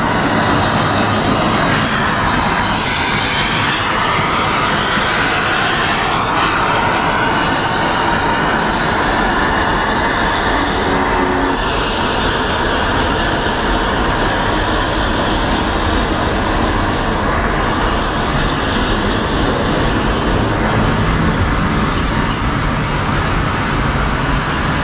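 Nilgiri Mountain Railway train passing close by: a steady, loud rumble of the coaches running on the rails.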